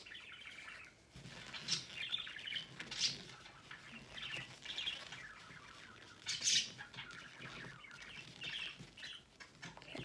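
Pet birds chirping on and off in short, irregular bursts.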